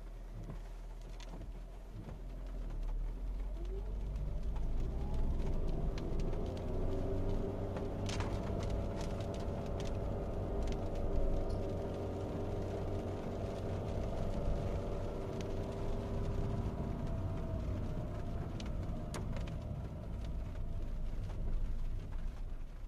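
Honda Fit 3 hybrid's 1.5-litre four-cylinder engine heard from inside the cabin, pulling away from a stop in L range, where the i-DCD gearbox starts off in second gear. The engine note rises over the first several seconds, holds steady, then eases off near the end over a low road rumble.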